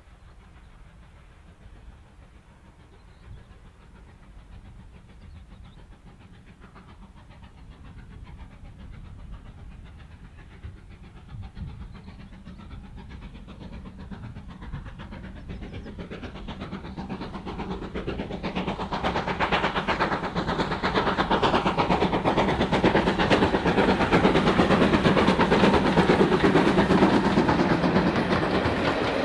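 A train approaching along the line, faint at first under a low rumble, then growing steadily louder from about two-thirds of the way through and staying loud, with the rattle of wheels on rail joints.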